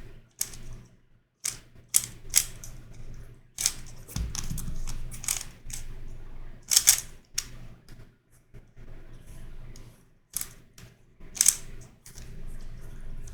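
Plastic clicks and clacks of a YuXin Corner Helicopter 2x2 twisty puzzle being turned and twisted by hand, in irregular runs of quick clicks with short pauses between.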